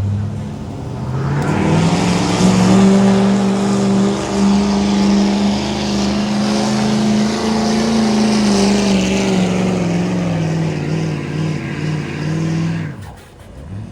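Pulling vehicle's engine run hard at high revs: it climbs about a second and a half in, holds its pitch, sinks gradually in the second half, and shuts off suddenly near the end.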